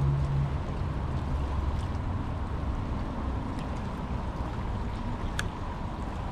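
Water sloshing and rumbling around a fishing kayak, with a low hum that fades out in the first second or two. A few sharp clicks come through, the clearest about five seconds in.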